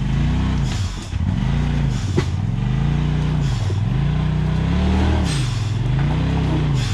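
An off-road vehicle's engine is revved up and down repeatedly, about five swells, as the driver tries to power over a rock while hung up on it. A single sharp knock sounds about two seconds in.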